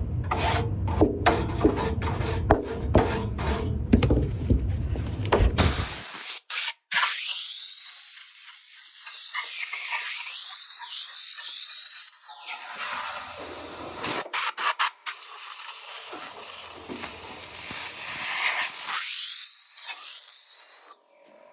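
A brush scrubbing along air conditioner condenser fins in quick, repeated strokes for the first several seconds, then a steady spray hissing for most of the rest, cutting off abruptly just before the end.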